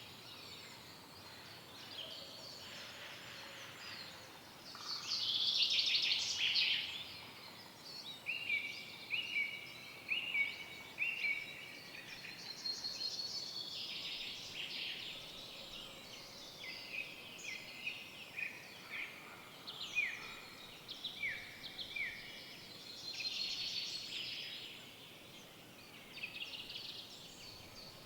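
Several songbirds singing over each other in woodland, with short chirps and trills. A little before the middle, one bird repeats a short even note about twice a second for a few seconds, and later short falling whistles come one after another.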